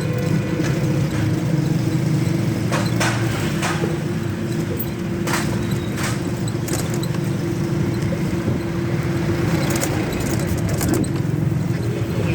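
A road vehicle running steadily, with a continuous low rumble and a steady hum, and a few short clicks and rattles about three, five to six and ten seconds in.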